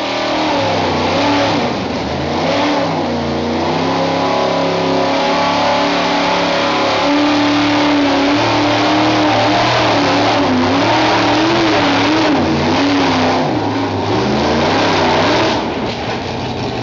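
Modified gas pulling truck's engine running hard at high revs under load, its pitch wavering up and down, then dropping off near the end.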